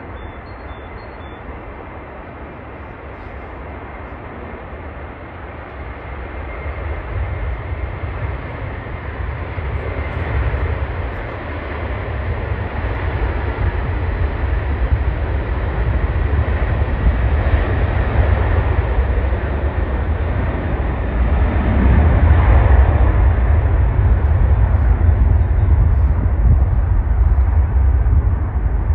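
Jet airliner's engines rumbling as it passes, growing steadily louder, with a sweep that falls in pitch about two-thirds of the way in.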